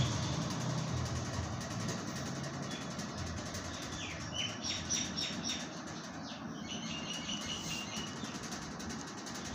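Birds chirping in a run of short high notes from about four seconds in to about eight, over a steady background hiss.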